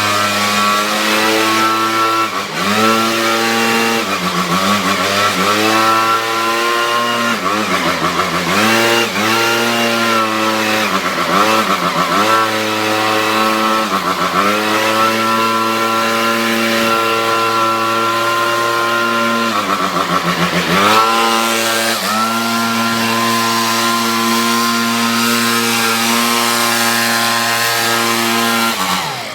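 Small engine running at high speed. Its pitch dips sharply and climbs back again every two to three seconds, with a longer steady stretch in the middle.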